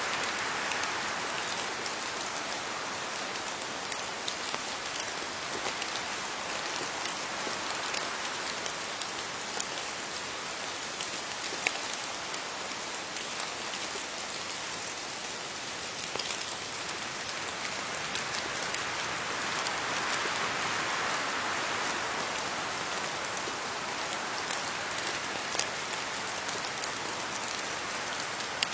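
Steady rain falling on leaves, a dense patter of drops with many small individual drop ticks; the rain swells a little about twenty seconds in.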